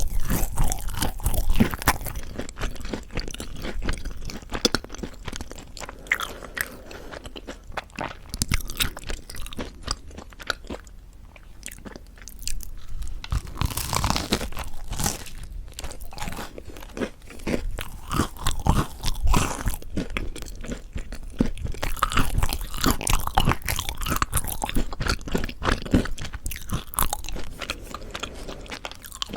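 Close-miked biting and chewing of crispy mocha bread, its crunchy crust crackling with each bite, in several louder crunching bouts.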